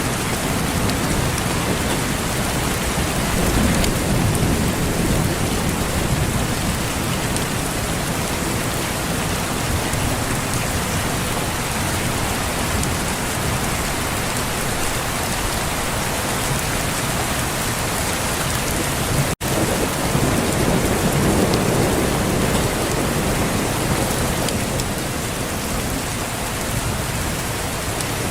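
Steady heavy rain with low rolls of distant thunder swelling twice, a few seconds in and again about two-thirds of the way through. Just before the second roll the sound drops out for a split second.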